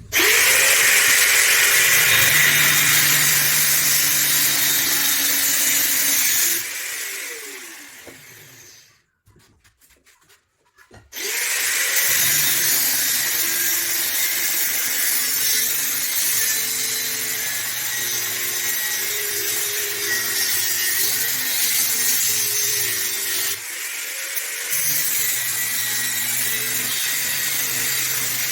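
Electric power tool running at full speed. It winds down and stops for about two seconds, then starts again and runs steadily.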